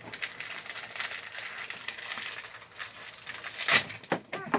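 Plastic toy packaging crinkling and being torn open by hand, a dense run of crackles with one loud snap near the end.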